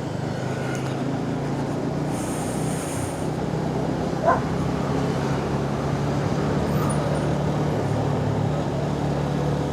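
Suzuki Gixxer 250's single-cylinder engine running steadily under way, with road and wind noise. A short, sharp call-like sound cuts through about four seconds in.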